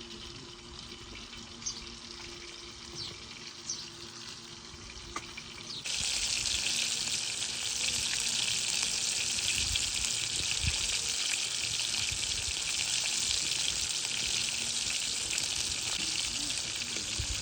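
Food frying in hot oil, a steady loud sizzle that starts abruptly about six seconds in; before it, only quieter background with a few faint high chirps.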